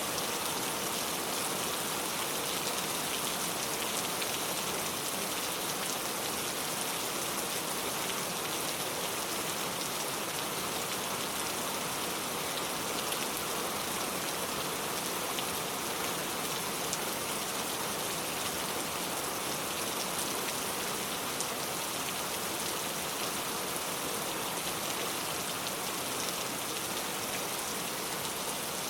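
Steady rain falling and pattering on surfaces, with scattered individual drops.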